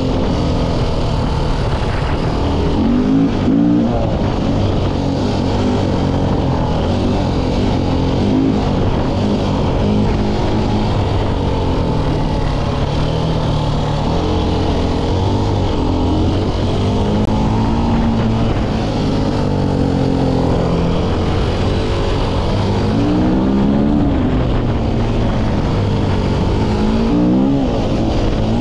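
2009 KTM 400 EXC's four-stroke 400 cc single-cylinder engine under way off-road, its pitch rising and falling again and again as the throttle is opened and closed.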